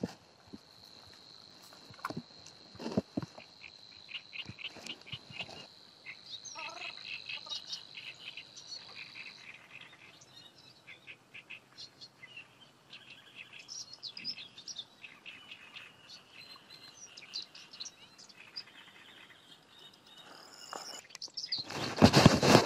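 Small birds chirping and singing, with a steady high trill held for the first nine seconds or so. A couple of soft knocks come about two and three seconds in, and a burst of loud rustling near the end.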